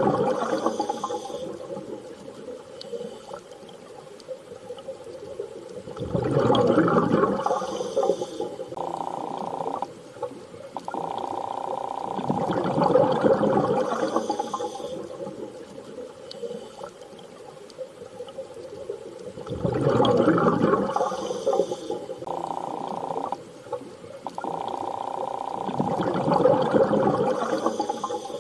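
Underwater water ambience: a swell of surging, bubbling water about every six and a half seconds, with a steady humming tone held between the swells.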